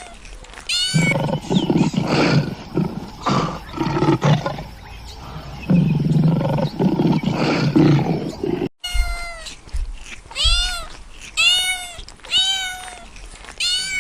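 A big cat's rough, drawn-out roaring growls, then after a sudden break a series of short, meow-like cat calls, about one a second.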